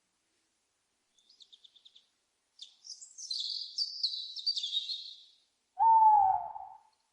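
Owl calls: a run of faint, quick high notes and a high chattering series, then one louder, lower hoot about a second long, slightly falling in pitch, near the end.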